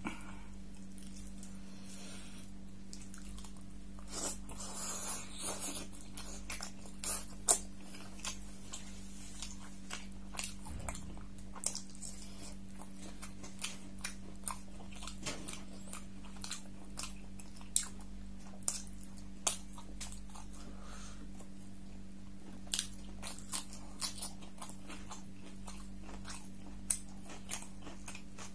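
Close-miked chewing and biting of beef curry and paratha, with many short, irregular mouth clicks, the loudest about seven seconds in. A steady low hum runs underneath.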